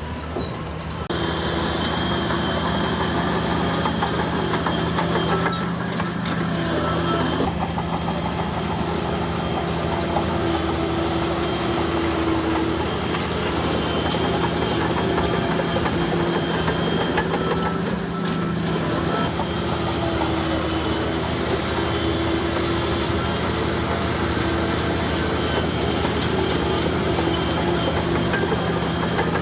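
Bulldozer's diesel engine running steadily, with a constant drone and a faint high whine; it grows louder about a second in.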